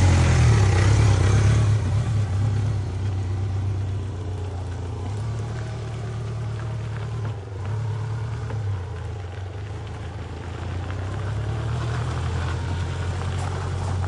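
BMW K1200LT's inline four-cylinder engine running, louder for the first couple of seconds and then settling into a steady idle.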